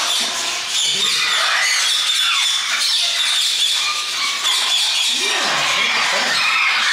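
Many parrots squawking and chirping together, a dense, unbroken chorus of short rising and falling calls.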